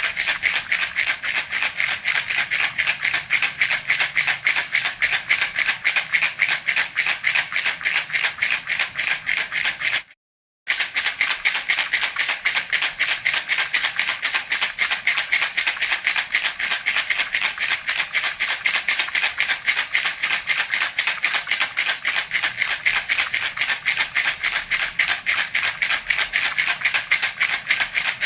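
Baby's rattle (jhunjhuna) shaken steadily in a fast, even rhythm, its beads rattling crisply. The sound cuts out completely for about half a second about ten seconds in, then the shaking carries on unchanged.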